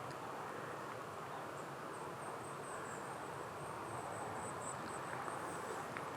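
Insects chirping in high, rapid pulses, starting about a second and a half in, over a steady background hiss outdoors.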